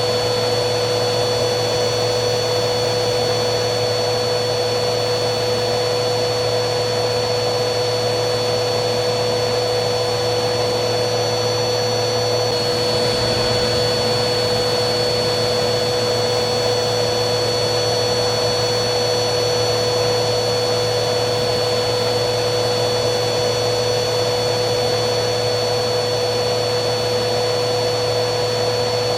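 Vacuum cleaner running steadily: a constant rush of air with a steady motor whine, the high whine stepping up slightly in pitch about twelve seconds in.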